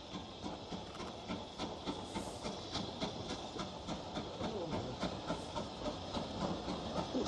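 Train on a heritage steam railway drawing into the station, its wheels clicking rhythmically over the rail joints and growing steadily louder as it approaches.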